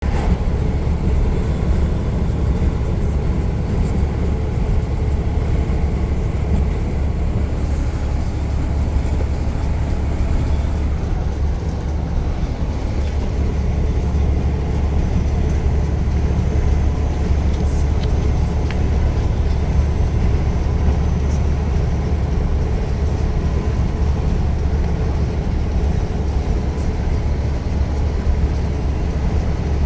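Truck driving along, heard from the cab: a steady, unbroken low rumble of engine and road noise.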